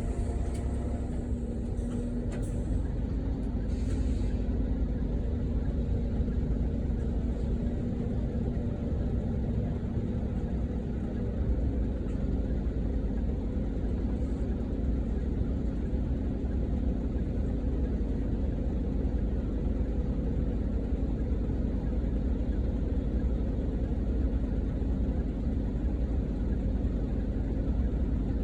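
Hino Selega coach's diesel engine idling steadily, a low even rumble, with a few brief clicks and a short hiss about two to four seconds in.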